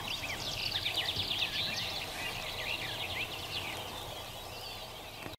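Birds singing: a dense run of quick high chirps, busiest in the first three seconds and thinning out after, over a steady background hiss.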